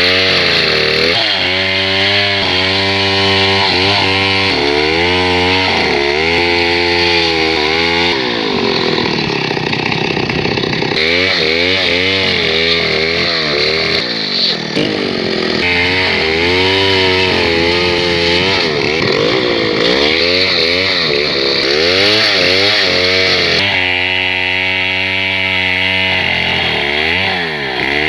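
Chainsaw ripping a bangkal log lengthwise into lumber. The engine pitch keeps rising and sagging as the chain loads up in the cut and frees again, and it bogs down into a rougher sound twice.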